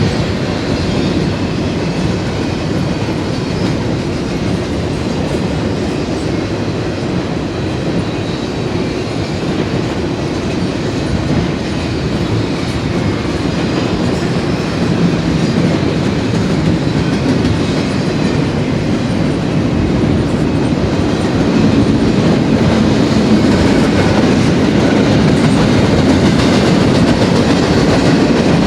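BNSF double-stack container train's cars rolling past on steel wheels over the rails, a steady, loud running noise that grows louder about two-thirds of the way through.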